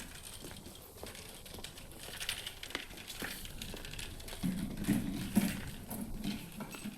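Street ambience: scattered light clicks and clinks, with a low murmur that swells about four and a half seconds in and fades near the end.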